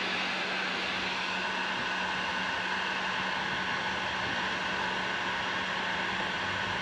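Heat gun running steadily: an even blower hiss with a low motor hum underneath, used to reheat an adhesive patch so it sets back down.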